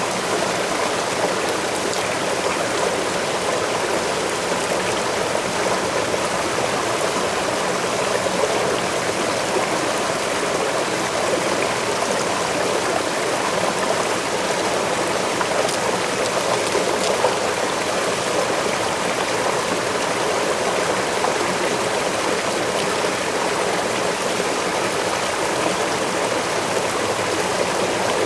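Waterfall rushing steadily into flowing water, an even unbroken wash of water noise with faint scattered splashes and drips.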